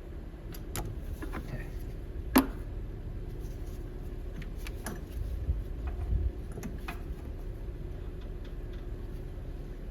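Scattered light clicks and taps of hand tools working at plastic clamps and connectors, with one sharper click about two and a half seconds in, over a steady low hum.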